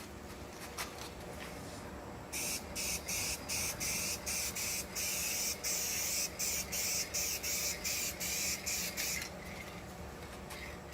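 Aerosol spray-paint can spraying a coat of paint in short passes: a hiss broken by brief gaps about twice a second, starting about two seconds in and stopping near the end.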